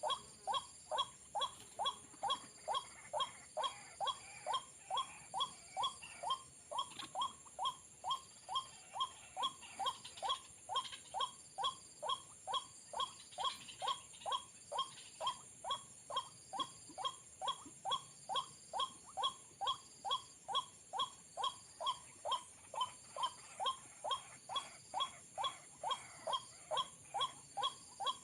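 White-breasted waterhen call: a short note repeated steadily, a little over two a second, without a break.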